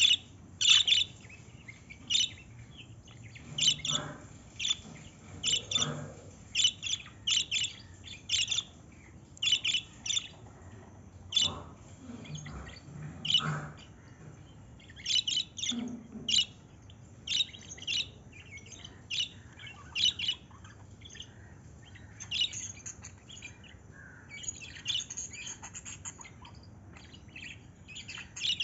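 Birds chirping: short, high-pitched chirps repeated irregularly about once or twice a second.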